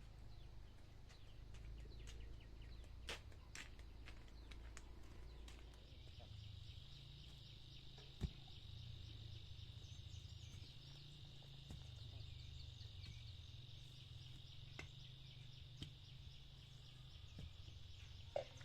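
Faint insect chirring, a steady high buzz that sets in about five seconds in, over a low rumble with scattered light clicks and taps.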